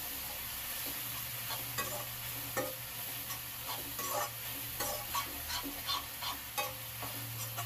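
Onion-tomato masala sizzling in a metal kadai over a gas flame while a steel ladle stirs it, scraping and clinking against the pan at irregular moments.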